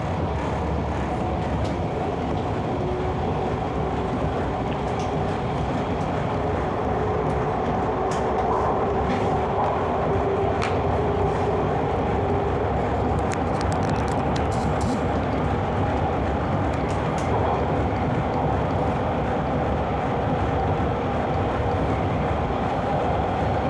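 Toronto subway train running between stations, heard from inside the car: a loud, steady rumble of wheels on rail with a faint motor whine, and a cluster of light clicks about halfway through.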